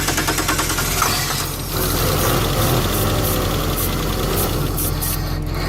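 1999 Chrysler Sebring engine cranking on the starter, then catching about a second or two in and running unevenly on ether after sitting for about four years; a bad fuel pump is suspected.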